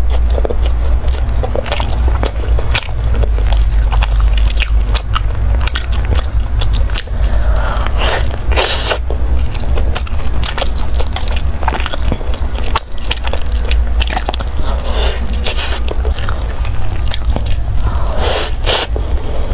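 Close-miked mouth sounds of a person biting into and chewing a taro-ball cake with a mochi layer: many small clicks and crackles. A steady low hum runs underneath.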